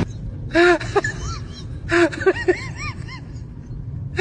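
A cat making a string of short chirping meows, each call rising and falling in pitch, in two quick runs, over a steady low rumble.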